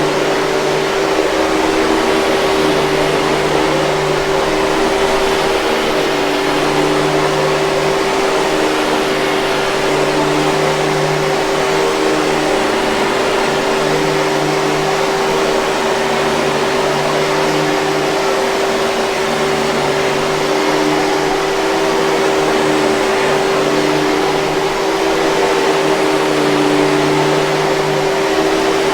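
Hoover 5000 Series canister vacuum cleaner running steadily: a continuous motor whine with one strong steady tone over a rush of air, with some lower tones swelling and fading slowly.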